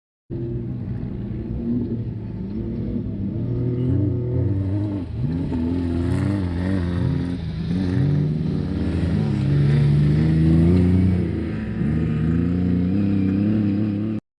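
Off-road race vehicle's engine revving under load, its pitch rising and falling repeatedly as it accelerates and shifts. The sound cuts in and cuts off abruptly.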